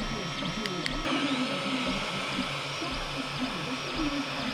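XVICO X3S 3D printer at work: its stepper motors whine in quickly shifting pitches as the print head moves, over a steady hiss that grows louder about a second in. Two short clicks come just before the hiss grows.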